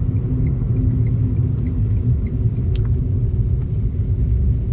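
Steady low rumble of a car driving along a highway, with road and engine noise heard from inside the cabin. Faint regular ticks come about every half second, and there is a single sharp click a little past halfway.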